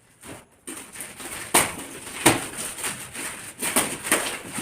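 Gift packaging rustling and crinkling as it is unwrapped, with sharper irregular crackles, starting just under a second in.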